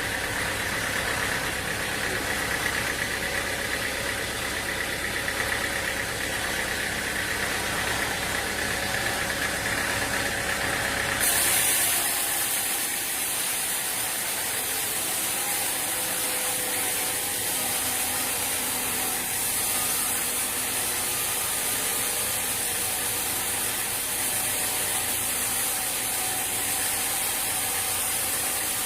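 Sawmill machinery running steadily, an engine-like drone. About eleven seconds in, the sound changes abruptly to a brighter, hissing machine noise with less rumble.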